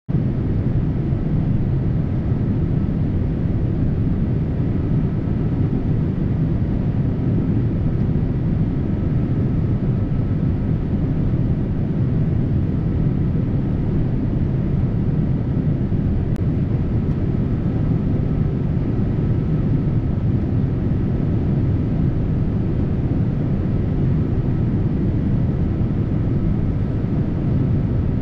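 Combine harvester running steadily at a constant speed while cutting soybeans: a continuous low engine and machinery drone with a few faint steady whining tones above it.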